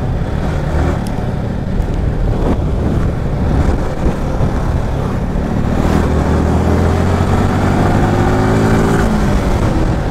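Yamaha R15M's 155 cc single-cylinder engine heard from the rider's seat over road and wind noise. It runs steadily at first. From about six seconds in it revs up, the pitch rising steadily, then drops off about nine seconds in as the throttle closes or the next gear goes in.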